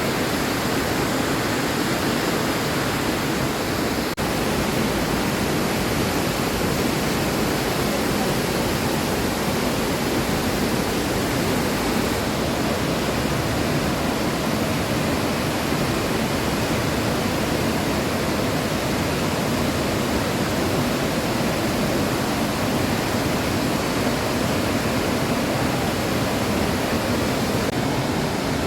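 Steady, loud rush of a large waterfall, Burney Falls, its water pouring down into the pool below.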